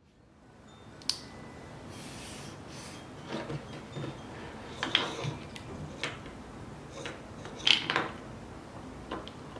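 Scattered light clicks and knocks of small hard objects being handled, at irregular intervals over a faint steady hiss.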